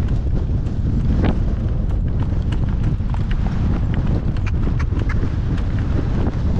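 Horse's hooves striking the ground at a trot, a run of sharp clicks over loud wind buffeting the microphone.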